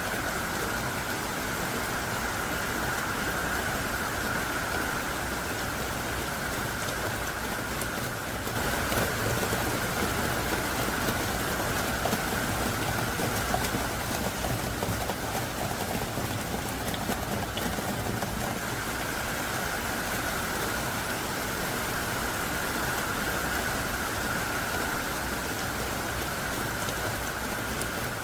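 Heavy rain pouring down steadily, a dense even hiss of a hard downpour, with a brief dip about eight seconds in and a slightly louder spell just after.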